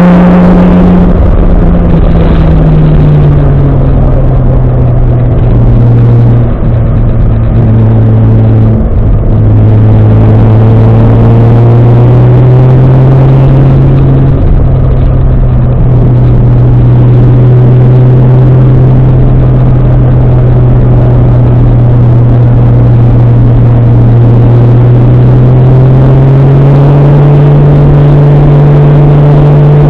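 Nissan 240SX's swapped-in Toyota 1JZ-GTE twin-turbo inline-six running loud under way, its pitch dropping a couple of seconds in, then holding fairly steady and climbing again near the end.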